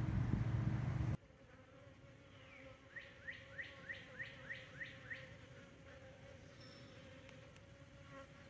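Honeybees buzzing in a faint steady hum around a swarm trap, with a bird calling a quick series of about seven rising notes a few seconds in. A louder low rumble fills the first second and cuts off abruptly.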